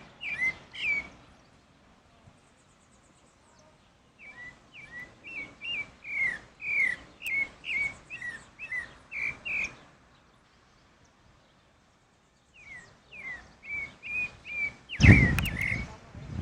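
Pale-breasted thrush (sabiá-barranco, Turdus leucomelas) singing: runs of short whistled notes, about two a second, broken by pauses of a few seconds. Near the end a loud low thump briefly drowns the song.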